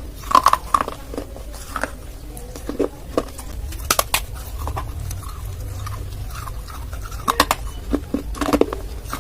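Dry clay being bitten and chewed: scattered sharp crunches that come in small clusters, over a steady low hum.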